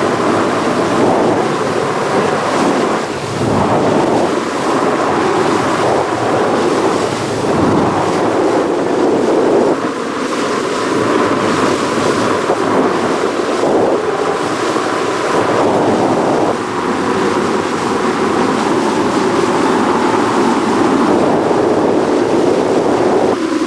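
Boat under way on open water: steady rushing of wind and water with heavy wind buffeting on the microphone.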